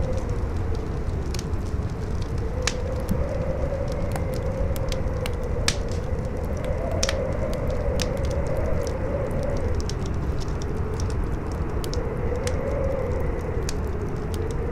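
Campfire crackling, with frequent sharp, irregular pops and snaps, over strong wind that howls with a slowly rising and falling pitch and a low steady rumble.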